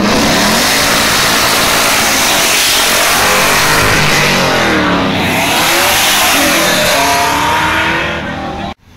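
Early-1970s Chevrolet Camaro accelerating hard, its engine revving up and dropping back several times as it pulls away, loud. The sound cuts off abruptly near the end.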